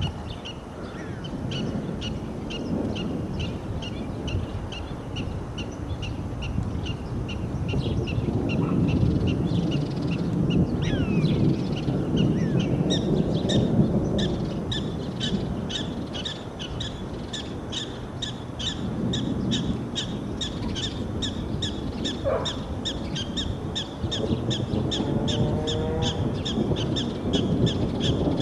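Wind buffeting the microphone with a low, uneven rumble, under a high chirp repeating about three times a second. A short rising call comes once, about three quarters of the way in.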